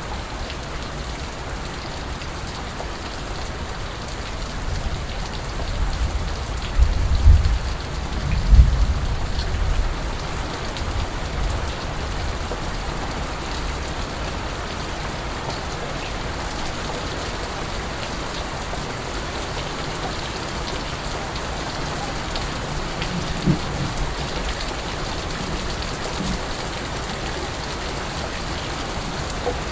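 Steady rain falling, with scattered single drips ticking over it. A low rumble swells up about six to nine seconds in, and briefly again a little past the middle.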